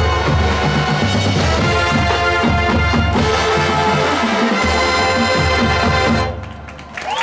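High school marching band, brass with drumline, playing a loud passage with pounding low drums that cuts off sharply about six seconds in.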